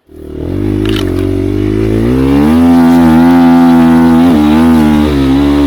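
Enduro dirt bike engine under throttle, close to the microphone. It starts abruptly, revs up about two seconds in and holds high revs with the pitch wavering, dipping briefly a little past four seconds.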